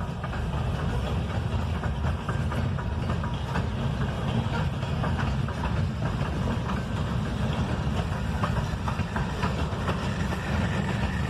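Freight train rolling past: a steady low rumble of railcars with scattered clicks and clanks of wheels over the rail.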